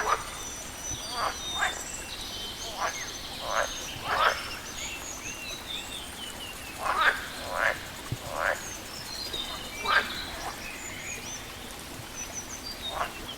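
Frogs croaking in short, irregular calls, about ten in all, some coming in quick pairs. Birds chirp and twitter at a higher pitch throughout.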